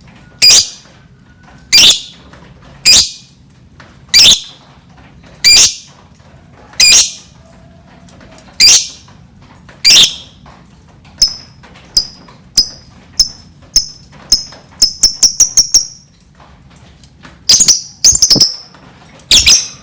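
Lovebird calling: loud, harsh, high shrieks about once every second and a bit. About halfway through they give way to shorter, higher chirps that quicken into a rapid chattering run. A few more loud shrieks come near the end.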